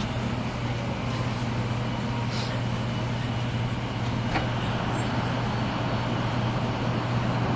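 Running noise of a 300 series Shinkansen heard from inside the passenger cabin: a steady low hum over an even rush of rolling and wind noise, with a few faint ticks.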